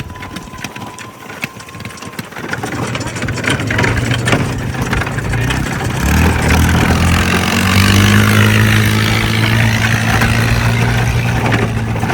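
A vehicle's engine running with a rattly, noisy sound, building up over the first few seconds, then holding a steady, loud, low-pitched drone from about halfway through.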